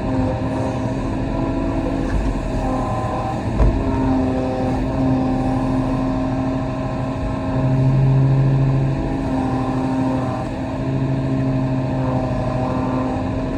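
Kobelco SK35 mini excavator's diesel engine running steadily, with the load rising and easing as the hydraulics work. There is a brief thump a few seconds in, and the engine grows loudest about midway.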